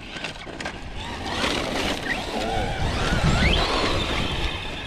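Radio-controlled truck's electric motor whining, its pitch rising and falling with the throttle and climbing sharply about three and a half seconds in, with wind rumbling on the microphone.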